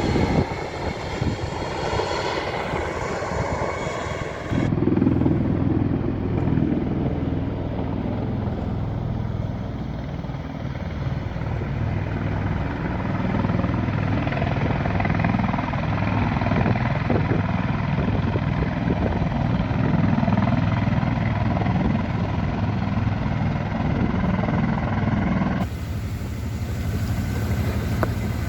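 Boat engine running steadily under way, a dense low rumble mixed with wind noise. The sound changes abruptly about five seconds in and again near the end.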